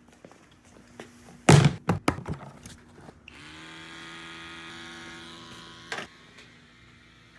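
A handful of loud thunks and knocks close together, then a steady machine hum that starts with a short rise and stops about six seconds in with a click.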